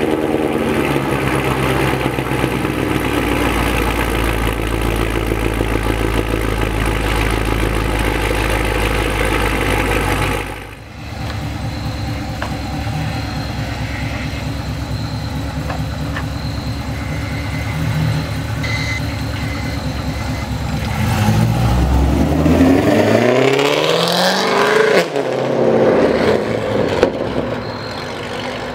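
A 2006 Pontiac GTO's 6.0 L LS2 V8 on long-tube headers and catless midpipes idling steadily just after its first start. After a cut about ten seconds in, the V8 idles again, then revs up and accelerates away, loud, its pitch rising.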